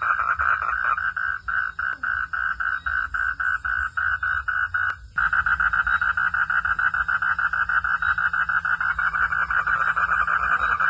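Frogs calling at night in a steady chorus of rapid, even pulses, about six a second. The sound cuts out briefly about five seconds in, then resumes.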